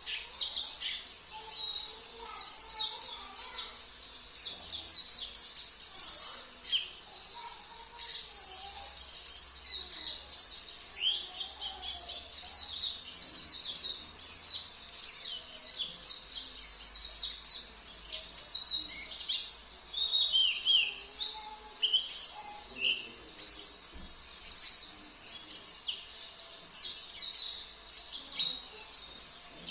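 White-eye (pleci) singing a fast, unbroken, high-pitched twittering song of rapid chirps, with mimicked phrases of other songbirds woven in.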